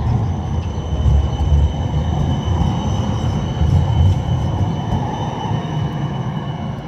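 Tram running by: a steady low rumble of wheels on the rails with a thin, steady high whine over it, easing slightly near the end.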